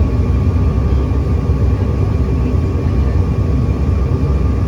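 Steady cabin noise aboard a regional jet airliner: the low engine and airflow drone, with a faint constant whine above it.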